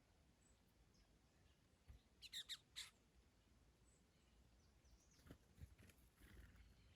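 Faint garden birdsong: scattered high chirps, with a quick run of about four sharp, louder bird notes a couple of seconds in and a few more notes over a brief low rumble near the end.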